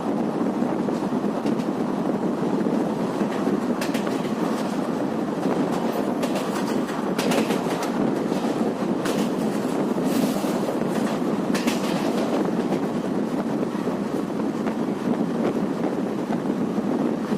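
Varanasi Intercity Express passenger train running along the track: steady wheel-on-rail running noise with scattered clicks over rail joints.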